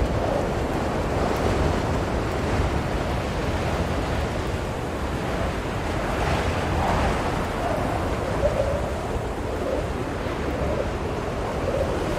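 Blizzard wind blowing steadily, a dense rushing noise with a low rumble and a faint wavering howl that rises and falls.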